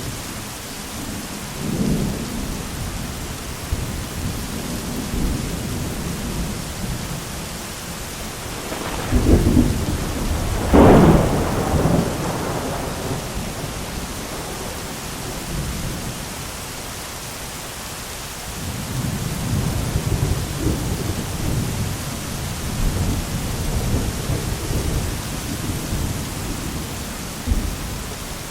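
Thunderstorm: steady heavy rain hissing, with low rolling thunder throughout and a sharper, louder crack of thunder about ten seconds in.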